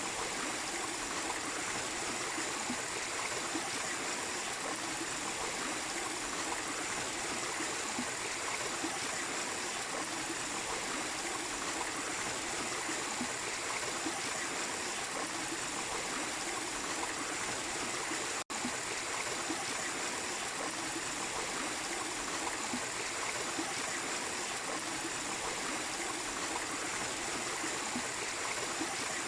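Small waterfall splashing and a stream flowing steadily, an even rush of water with no change, broken by a split-second dropout about two-thirds of the way through.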